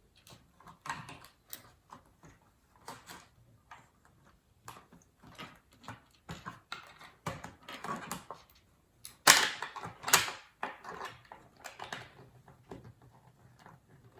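Plastic LEGO bricks being handled and pressed back together: irregular clicks and light rattles, the loudest pair about nine and ten seconds in.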